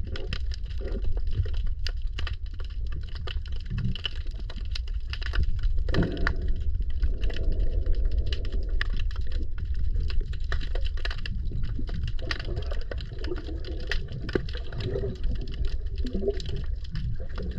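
Underwater sound along a seawall: a steady low rumble of moving water with a dense, constant crackle of tiny clicks and occasional bubbling gurgles.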